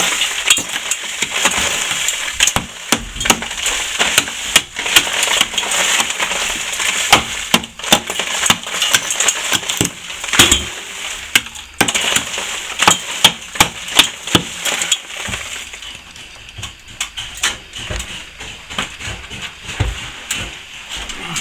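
A hand tool scraping and chipping at old plaster on a wall, opening up a crack, with many sharp clicks and knocks as bits of plaster break away. It stops briefly about twelve seconds in and gets lighter near the end.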